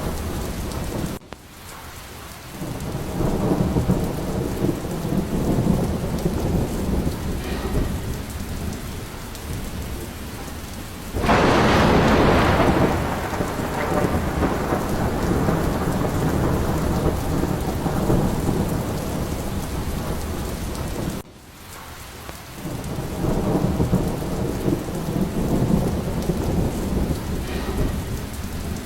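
Thunderstorm: steady heavy rain with rolling thunder, low rumbles swelling a few seconds in and again near the end, and a sudden loud thunderclap about eleven seconds in that fades away over several seconds. The whole sound drops off abruptly twice, about a second in and about twenty-one seconds in, then builds back.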